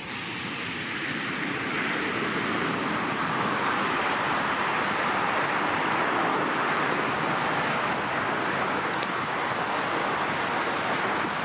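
Jet airliner on final approach passing by: a rushing engine noise that builds over the first few seconds, is loudest about halfway through, then slowly eases off.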